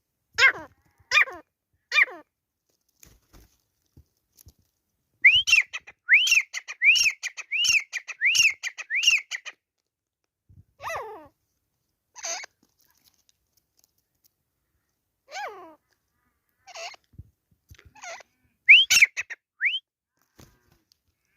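Grey francolin calling. It gives three short calls that drop steeply in pitch, then a quick run of about seven whistled notes that each rise and fall. More scattered falling calls follow, with a pair of sharp rising notes near the end.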